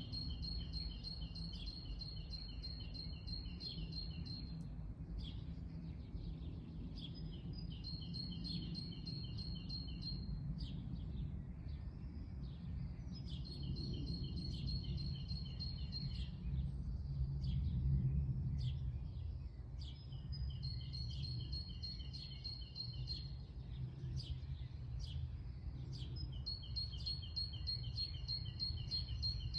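A songbird repeating the same song phrase, a rapid even trill of high notes lasting three to four seconds, about every six seconds. Under it runs a steady low rumble.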